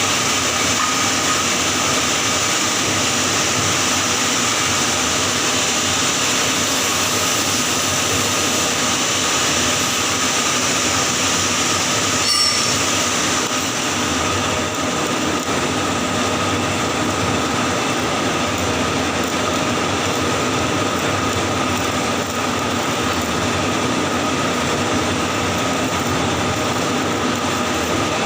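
Electric welding arc burning steadily during a 6G pipe weld, with a continuous crackling hiss. A short click comes about halfway through, after which the highest hiss drops a little.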